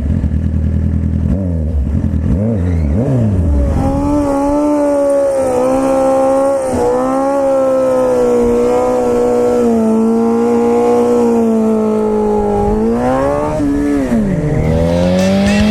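Motorcycle engine under way: revs rise and fall through gear changes in the first few seconds, then hold fairly steady at cruising speed before dropping and climbing again near the end.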